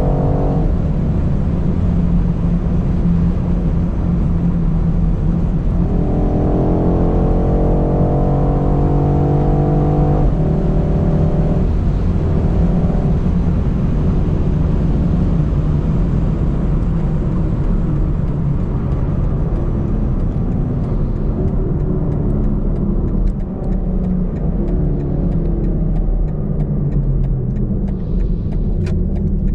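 BMW X5 M's twin-turbo V8 pulling hard at speed under a steady road rumble: the engine note climbs from about six seconds in, breaks with a gear change around ten seconds, pulls briefly again, then settles into steady cruising that eases off in the second half.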